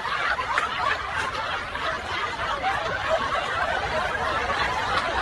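People snickering and chuckling over a steady background hubbub.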